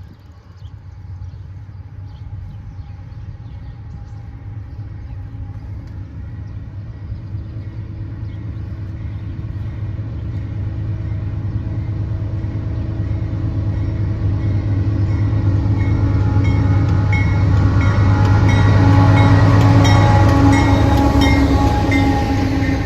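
A diesel-electric locomotive-hauled train approaching along the track. The low engine and rail noise grows steadily louder and is loudest about three seconds before the end.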